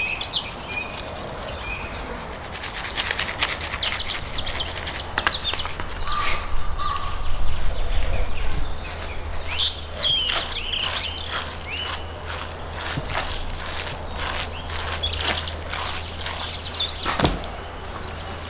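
Small birds chirping and singing repeatedly, over scattered light clicks and taps, with one sharper knock near the end.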